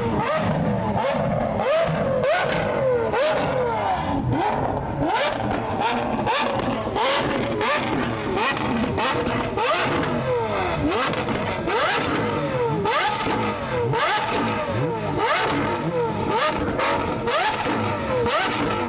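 Several performance car engines revving hard over and over, their pitch climbing and dropping in overlapping sweeps, with frequent sharp exhaust cracks and pops between the revs.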